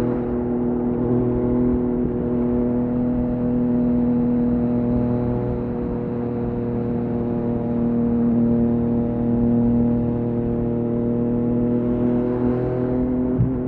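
Yamaha MT-09's three-cylinder engine through an Akrapovic exhaust, held at a nearly steady engine speed while cruising, with a brief knock near the end.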